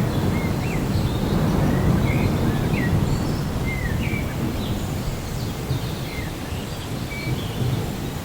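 Rainforest ambience: many birds chirping and giving short slurred whistles over a steady low rumble of distant thunder and rain.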